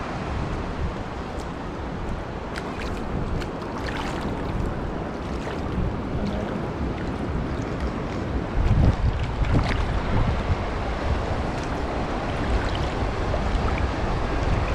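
Surf washing onto the beach under steady wind buffeting the microphone, with the low rumble of the wind stronger from about eight and a half seconds in.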